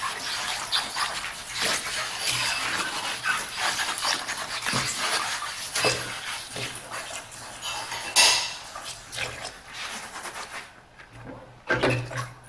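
Dishes and cutlery clinking and knocking together as they are washed by hand, with a sharp loud clink about eight seconds in and fewer sounds near the end.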